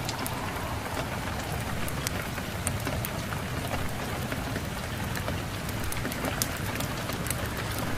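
Steady rain falling, with a low rumble underneath and scattered sharp crackles from a wood fire in a fireplace.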